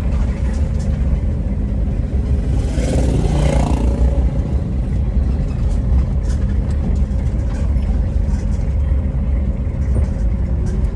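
Steady low rumble of a car driving, with a brief louder rush of noise about three seconds in.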